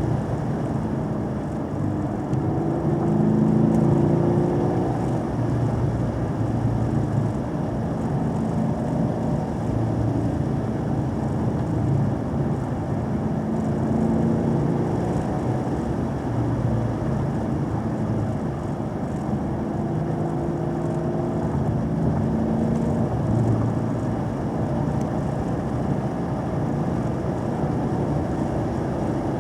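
Car engine under way, its revs climbing and falling several times as it pulls and eases off, over steady road and wind noise; it is loudest about four seconds in.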